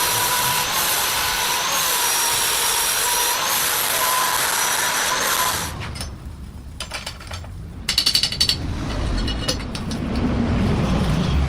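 A power tool runs steadily with a wavering high whine for about the first half, then cuts off. After that, metal parts clank and rattle over a low rumble.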